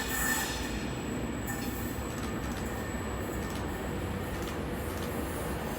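A passenger train running into the station with a steady low rumble, with a few faint clicks near the middle.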